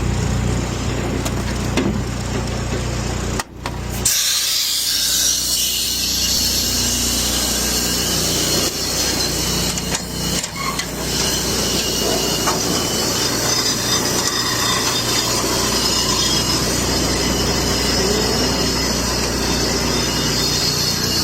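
Cryogenic tanker unloading: a steady low machine drone from the running transfer pump and truck. After a brief drop about three and a half seconds in, a loud steady hiss of gas flow joins it.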